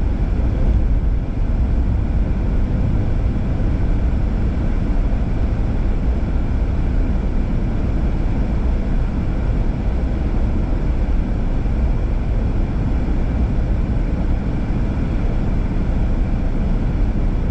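Car driving on a highway, with steady road and engine noise as an unbroken low rumble.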